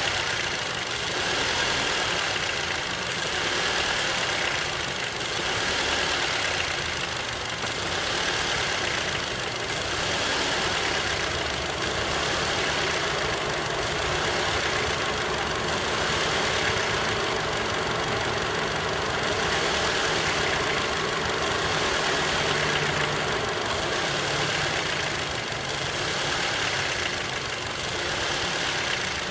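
Skoda Octavia A7's 1.8 TSI (CJSA) turbocharged four-cylinder petrol engine running, rising and falling in swells about every two seconds. The owner says a foreign noise has appeared when the throttle is released.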